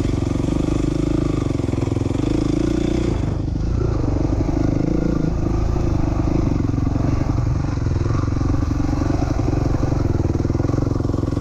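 2007 450R off-road engine running at a steady, moderate throttle while ridden slowly along a trail, with the engine note changing slightly about three seconds in.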